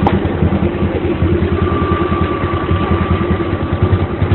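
Tractor engine running steadily at idle with an even low throb, driving a homemade log splitter; a thin steady whine joins in about a second and a half in.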